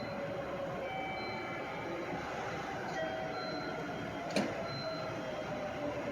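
Electric train moving in the station, its motor whine slowly falling in pitch as it slows, with brief high squeals and one sharp click about four seconds in.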